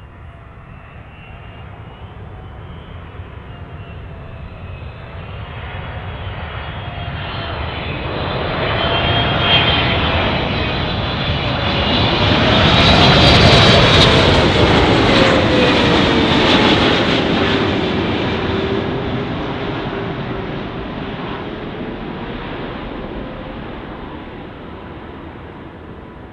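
Boeing 777-300 jet engines passing close by on arrival, the noise building to a peak about halfway through and then fading. A high whine drops in pitch as the aircraft goes past.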